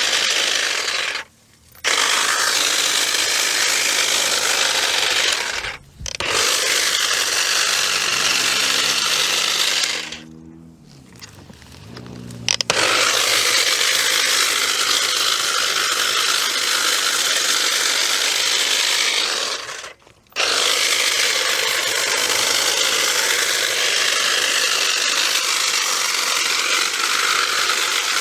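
Battery-powered cutter running and cutting through bushes. It stops briefly about 1.5 s and 6 s in, stops for a couple of seconds around 10 s, then runs again with one more short break near 20 s.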